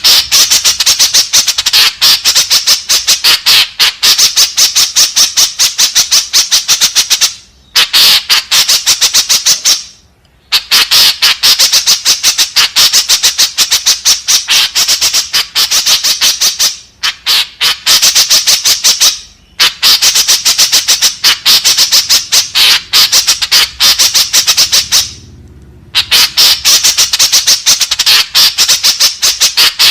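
White-breasted woodswallow (kekep babi) calls: rapid runs of harsh, chattering squawks in bouts several seconds long, broken by brief pauses. This is the kind of recording played to lure in other woodswallows.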